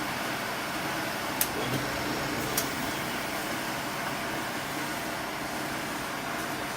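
Workshop machinery running steadily: a low hum under an even hiss, with two sharp clicks about a second apart near the start.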